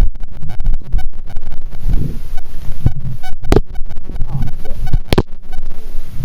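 Camera handling noise from a camera dangling on a wrist strap: a loud, uneven low rumble of rubbing and jostling, with two sharp knocks about three and a half and five seconds in.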